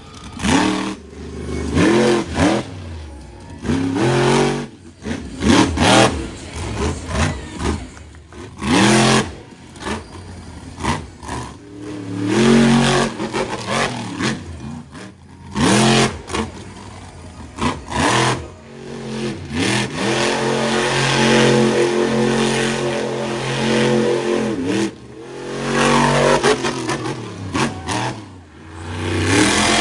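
Monster truck engine revving hard again and again, its pitch sweeping up and falling back, with a long stretch held at high revs about two-thirds of the way through. Loud sharp bangs come between the revs.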